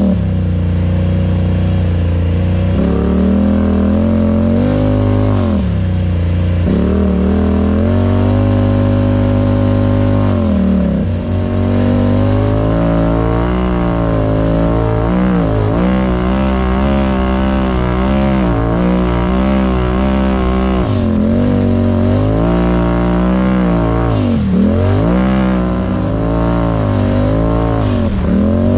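Off-road vehicle engine running under throttle, its pitch rising and falling again and again as it revs up and eases off, with a few quick drops and climbs near the end.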